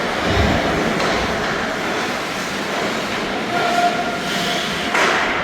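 Steady, dense din of a youth team game in play, with a low thud just after the start and a short pitched call, such as a shout, about three and a half seconds in.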